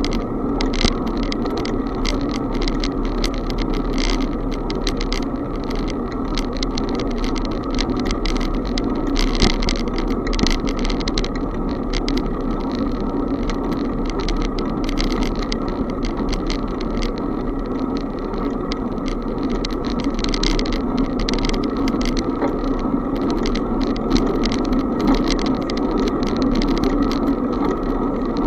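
Steady rushing noise of a bicycle ride, wind and tyres on the road, with constant small rattles and clicks.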